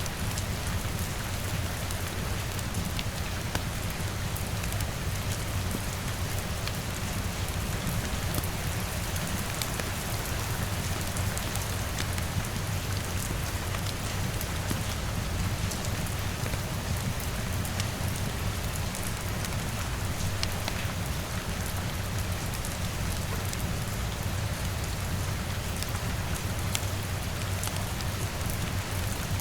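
Steady rain on a window with a deep, even rumble underneath, dotted with scattered small crackles from a wood fire.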